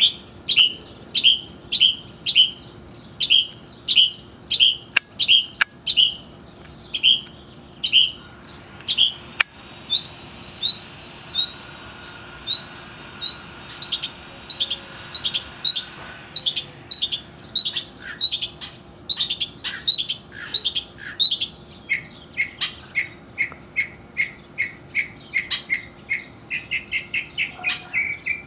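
A perched songbird calling over and over with short, sharp chirps, about two a second at first; in the last third the chirps come lower and faster, about three or four a second.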